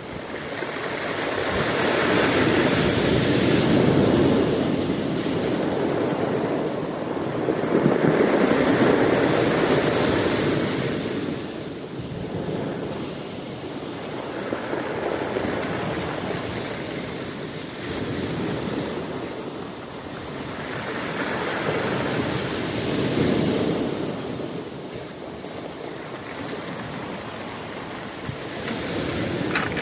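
Ocean waves breaking and washing in, the surf swelling and ebbing about every five seconds, loudest in the first ten seconds.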